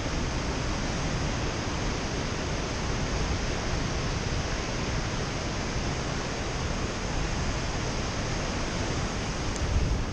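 Steady rushing roar of the Augrabies Falls on the Orange River, falling water heard as an even noise, with some low wind buffeting on the microphone near the end.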